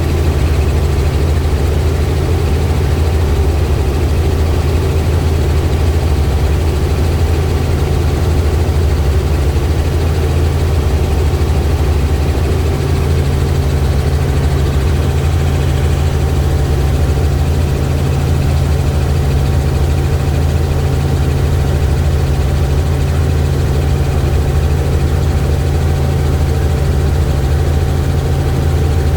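Helicopter in flight: the steady, unbroken drone of rotor and engine, low and loud, with a faint steady whine above it.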